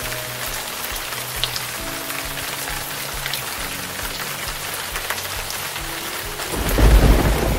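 Steady rain falling, an even hiss, with soft background music underneath. Near the end a loud low rumble comes in over it.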